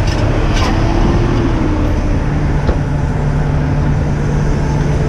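Heavy truck's engine running at a steady low rumble, with a steady low hum setting in a couple of seconds in.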